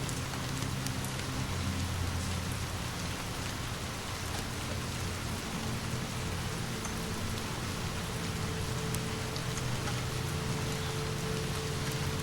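Steady rain falling on a surface, an even hiss with scattered faint drop ticks, over a low steady drone.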